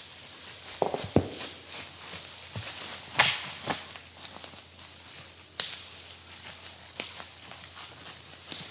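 A series of sharp knocks and clicks, irregularly spaced, about seven in all, the loudest about three seconds in.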